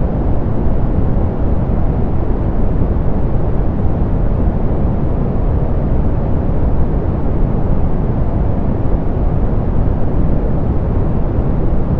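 Steady, softened pink noise: an even hiss weighted toward the low end, with little treble, unchanging throughout.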